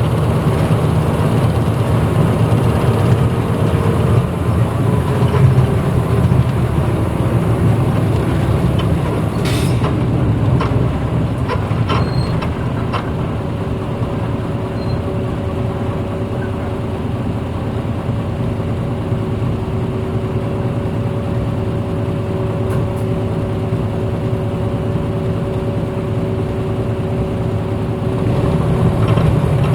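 1994 Hino Blue Ribbon city bus running, heard from inside the cabin: steady low engine and road noise with a few clicks and rattles. About halfway through it eases off a little and a steady whine comes in, and the engine builds again near the end.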